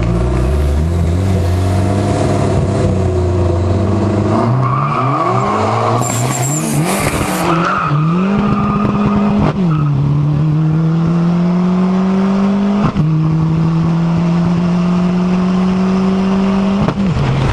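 A car engine at full throttle, accelerating hard through the gears in a street race. Its pitch climbs steadily in each gear and drops sharply at each shift, with three clear shifts in the second half.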